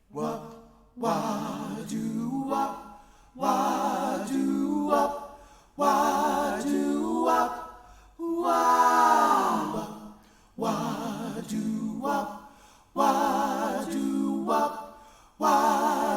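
An a cappella vocal group singing in close harmony, with no instruments. It sings in short phrases that stop and start again about every two and a half seconds.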